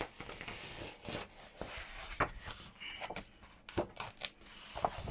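Sheets of thick paper being handled and shuffled together: irregular rustling with a few short sharp clicks.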